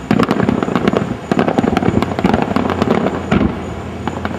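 Fireworks display at its finale: a dense run of sharp cracks and pops, many a second, over a continuous rumble.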